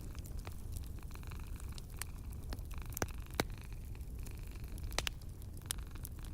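Wood fire crackling in a fireplace: irregular sharp pops and snaps over a steady low rumble and hiss of the flames.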